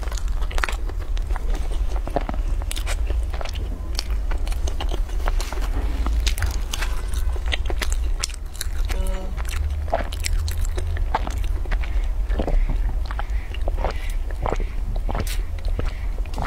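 Close-miked mouth sounds of someone eating: chewing with many small crunches and wet clicks, over a steady low hum.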